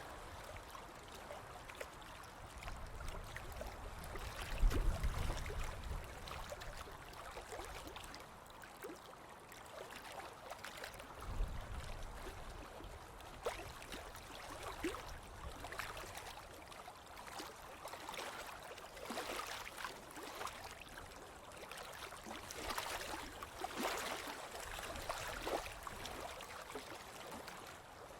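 Ocean waves washing and fizzing on a beach, a steady hiss of surf with crackling foam. Two low rumbles stand out, about five seconds in and again around eleven seconds.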